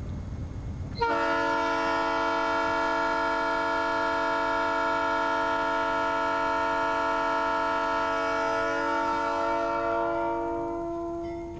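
Locomotive air horn sounding one long, steady chord blast as the engine approaches a grade crossing. It starts abruptly about a second in and fades out near the end, after a low rumble from the train.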